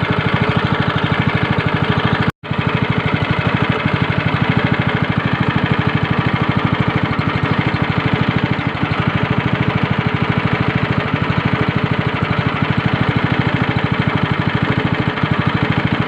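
Speedboat's outboard motor running steadily with an even, rapid pulse. The sound cuts out completely for a moment a little over two seconds in, then resumes.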